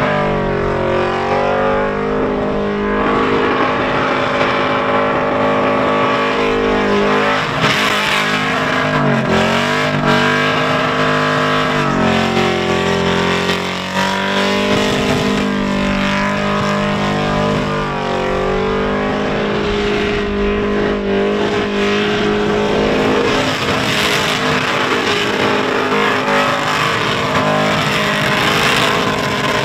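LS1 V8 in a VK Commodore held at high revs through a burnout, the engine note dipping and climbing back several times, over the hiss and squeal of spinning tyres.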